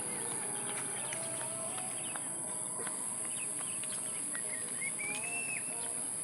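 Outdoor garden ambience: birds chirping and calling in short notes, with one longer rising and falling call about five seconds in, over a steady high-pitched drone.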